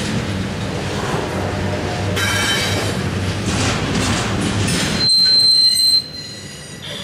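Double-stack intermodal freight train's well cars rolling past: a steady rumble of steel wheels on rail with high-pitched wheel squeals. A long, steady squeal sets in about five seconds in, and the rumble drops off sharply about a second later.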